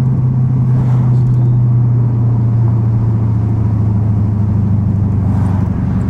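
Dodge Scat Pack's 6.4-litre HEMI V8 running at a steady cruise: a low, even drone that holds the same pitch throughout, without revving.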